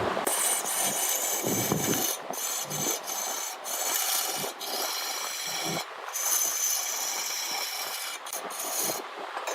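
A cutting tool scraping into a redwood log as it spins on a large wood lathe: a continuous rasping cut with a few brief breaks.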